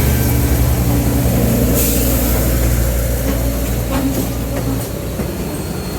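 Train running, with a steady low engine drone and a few clanks; the drone drops away about five seconds in.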